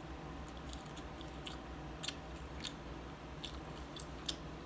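A person chewing a chicken nugget dipped in hot sauce, with soft, irregular mouth clicks over a faint low hum.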